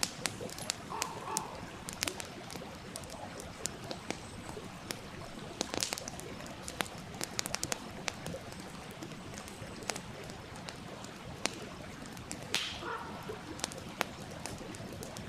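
Campfire crackling with frequent irregular sharp pops and snaps over the steady rush of a stream. A couple of brief higher-pitched sounds stand out, about a second in and near the end.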